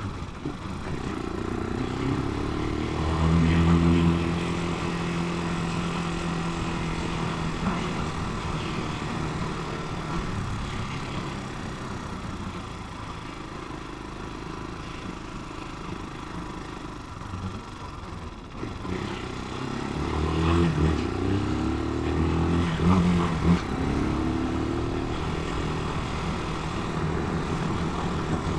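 Italika 250 motorcycle engine running under way, revving up twice, about three seconds in and again around twenty to twenty-four seconds in, with a quieter, steadier stretch between.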